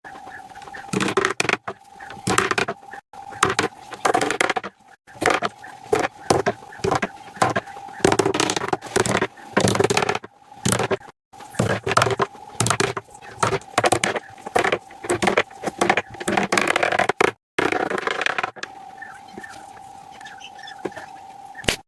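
Wood being worked by hand: irregular scrapes and knocks, at times several a second, over a faint steady hum, broken by a few sudden short silences.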